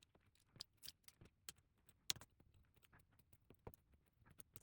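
Faint, scattered small clicks and taps, with one sharper click about two seconds in: flex-cable connectors being pressed back onto an iPad's board.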